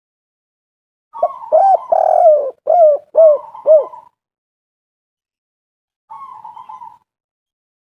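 Spotted dove (tekukur) cooing: about a second in, one phrase of about five hooting coos with a burry trill running between them, then a shorter, softer trill near the end.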